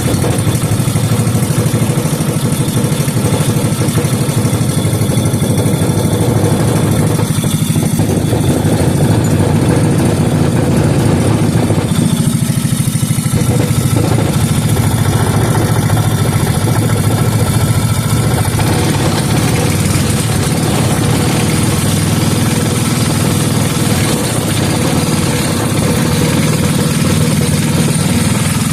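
5 hp Briggs and Stratton single-cylinder four-stroke engine running steadily after being restarted, its newly fitted muffler on.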